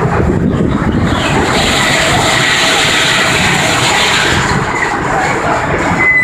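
Sawmill machinery running steadily, with a hissing sound from about a second and a half in until about four and a half seconds in.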